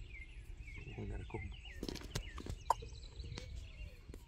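Birds chirping over and over in the background, with a few sharp clicks about two and a half seconds in.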